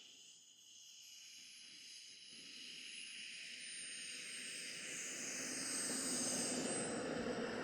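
A radio-controlled model aircraft flies in and grows steadily louder, with a thin high whine that slowly falls in pitch.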